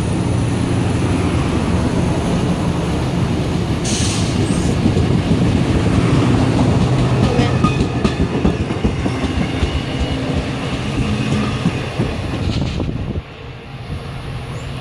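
MARC commuter train rolling close past while pulling out of the station: a loud, steady rumble and hum of the passing coaches, with a few sharp wheel clicks over the rail joints. The level drops suddenly about 13 seconds in, as the last car goes by and the train draws away.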